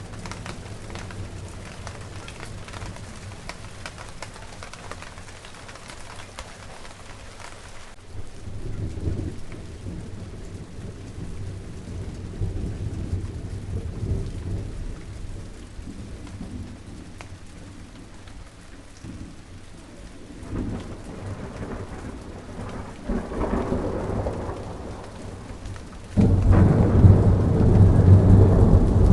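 Steady rain falling in a garden, with thunder rumbling several times. The sound jumps suddenly much louder near the end.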